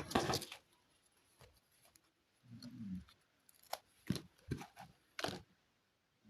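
Handling noises from unboxing a small plastic toy: a short rustle, a brief low hum, then a quick run of sharp clicks and snaps.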